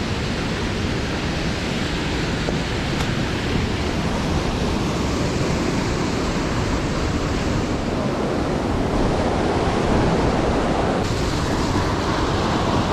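Fast mountain river rushing steadily.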